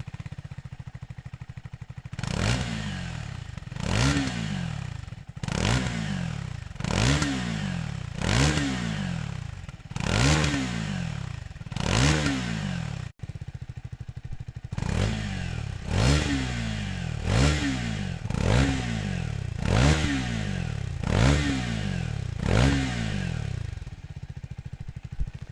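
Triumph Speed 400's single-cylinder engine running through a Scorpion slip-on exhaust. It idles and is blipped about fourteen times, each rev rising quickly and falling back to idle, with a brief break in the middle.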